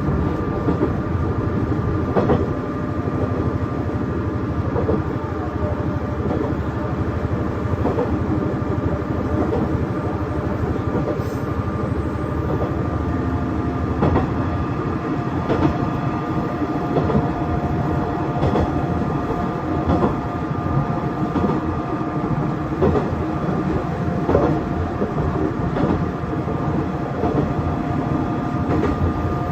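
KiHa 110 series diesel railcar running at line speed, heard from on board: a steady rumble with a constant drivetrain tone, and the wheels clacking over rail joints every second or two.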